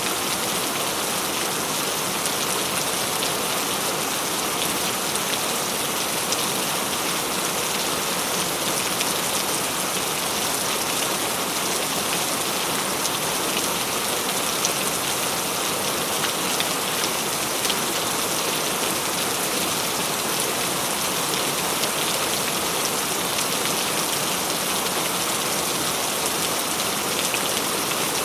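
Steady, even rain falling on a surface, with scattered small drop ticks.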